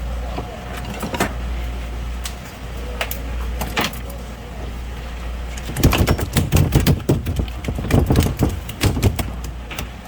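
Fish being handled on a cutting board: scattered sharp knocks and clicks, becoming a dense, loud run of slaps and thuds about six seconds in, over a steady low hum.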